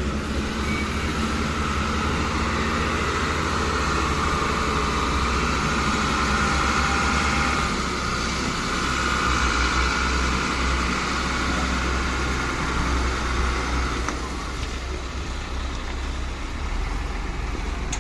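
Large diesel dump truck engine running steadily, a deep rumble under a broad mechanical hiss, a little quieter in the last few seconds.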